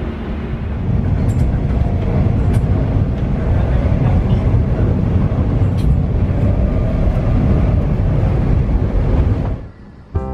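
Steady low rumble of a passenger train running, heard from inside the carriage, with a few faint clicks. It drops away shortly before the end.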